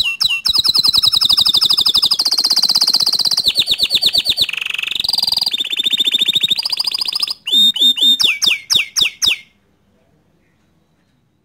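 Green canary singing: fast trills and rolls of repeated high notes, moving after about seven seconds into a series of separate downward-sweeping whistled notes. The song stops about nine and a half seconds in.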